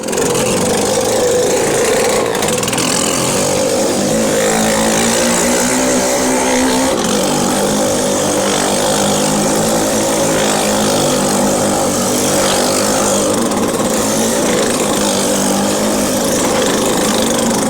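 Motorcycle engines running continuously at a steady, loud level.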